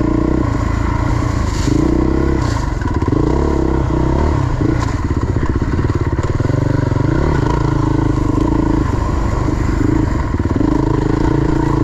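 Dirt bike engine running as the bike is ridden along a trail, its pitch rising and falling with the throttle.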